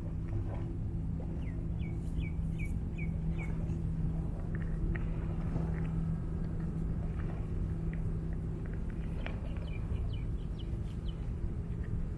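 Short high bird chirps, a quick run of about six and then a few more scattered ones later, over a steady low hum.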